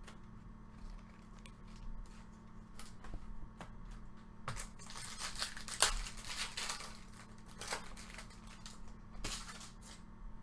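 Baseball trading cards being handled: scattered soft clicks and slides of card stock, with a denser rustling, tearing-like stretch from about four and a half to seven seconds in.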